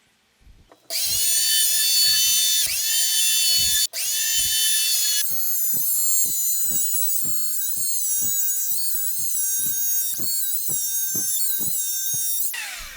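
Small electric motor of a homemade benchtop jointer whining at high speed. Its pitch sags each time the cutter takes load, and it winds down with a falling pitch near the end. A low thump repeats about two or three times a second underneath.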